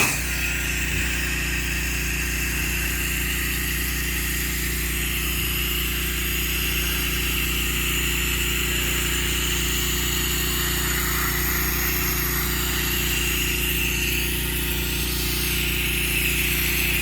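Pressure-washing rig running steadily, its engine humming under the constant hiss of the spray from the hand-held wand. The spray starts right at the beginning and keeps on.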